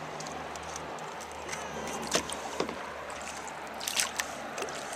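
Steady rush of river rapids heard from a canoe, with a few short splashes of paddle strokes about two seconds in and again near the end.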